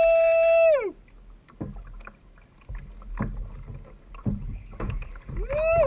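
Fishing reel drag whining as a hooked kingfish runs and pulls line off the spool: one steady, high whine that rises as it starts and falls away a little under a second in, with a second run's rising whine starting near the end. In between are scattered light knocks.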